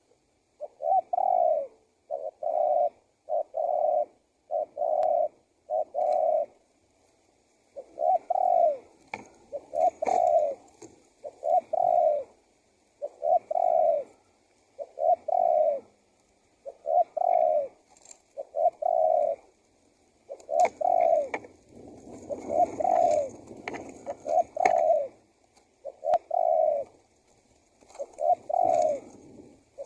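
Male spotted dove (tekukur) cooing over and over, a long series of low coos about one every second or second and a half. There is a short pause about seven seconds in, and the coos run closer together a little after twenty seconds.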